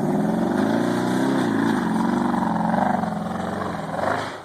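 Truck engine under load as it drives up a hill, its pitch rising and falling with the throttle. It eases off about four seconds in.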